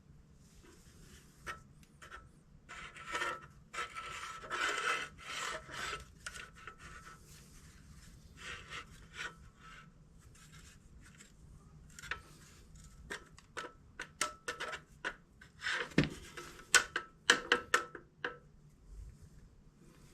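Torque converter being worked onto a flywheel and flex plate, metal scraping and rubbing on metal with a faint ringing, then a run of sharp clanks and knocks, loudest a few seconds before the end.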